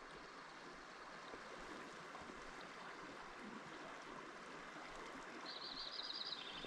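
Faint, steady rush of a flowing river. Near the end a brief, rapid high-pitched trill joins it.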